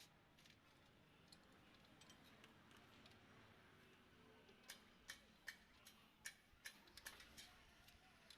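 Faint, sharp clicks, about ten of them a couple of seconds apart in the second half, after a few seconds of near silence.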